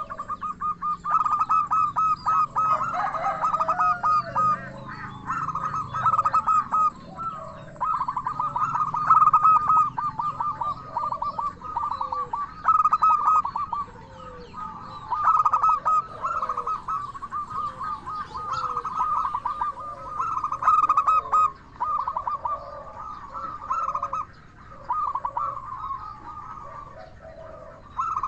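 Zebra doves (perkutut) cooing. Bouts of rapid staccato notes a second or two long follow one another, with fainter, lower coos in between.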